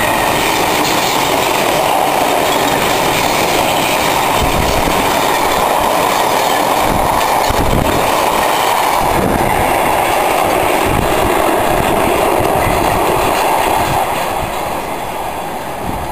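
Freight train of tank wagons rolling past at close range: a steady loud rumble and rattle of wheels on rail, with clickety-clack as the wheels run over the rail joints. It drops off near the end as the last wagons go by.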